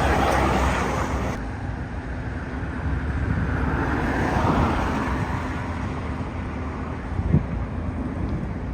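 Road traffic: vehicles passing over a steady low rumble, with a swell about half a second in and another around four to five seconds in.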